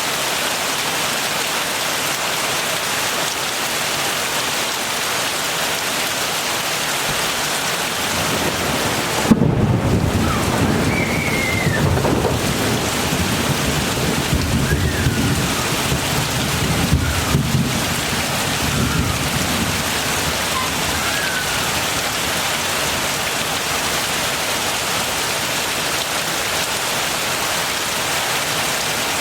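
Steady heavy rain, with a clap of thunder about nine seconds in that rumbles on for about ten seconds before fading back under the rain.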